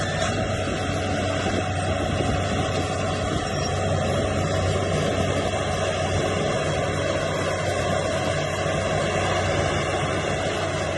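Diesel engine of heavy earthmoving machinery running steadily, with a low hum and continuous mechanical noise.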